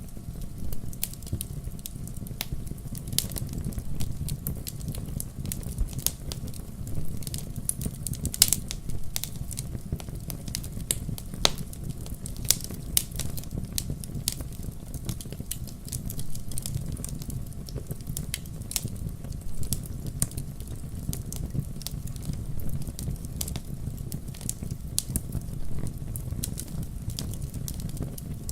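Fire crackling in a fireplace: a steady low rumble of flame under a constant scatter of sharp pops and snaps at uneven intervals, one louder pop about eight seconds in.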